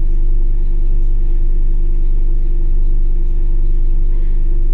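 Scania DC9 diesel engine of a Scania K280UB city bus running at a steady speed, a constant low rumble with an unchanging hum and no revving.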